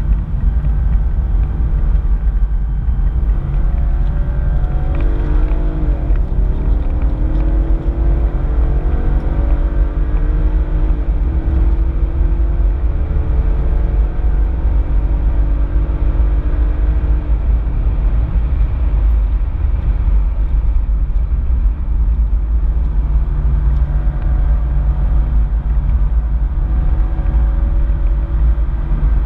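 Holden VFII Commodore's 6.2-litre V8 heard from inside the cabin under hard acceleration, revs climbing with two breaks for upshifts. About 17 seconds in the revs drop off and the engine runs more evenly through a corner, over a steady low road rumble.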